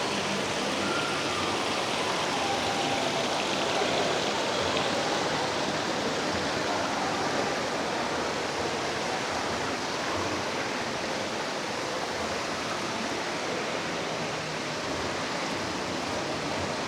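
Steady rushing of water: a dense, even hiss that holds level throughout.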